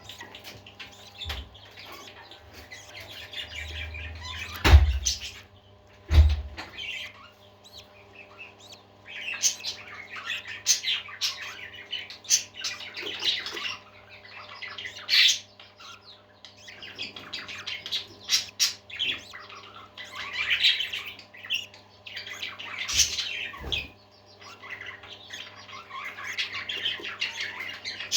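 A flock of parakeets chirping and warbling continuously in quick, overlapping calls. Two loud thumps come about five and six seconds in.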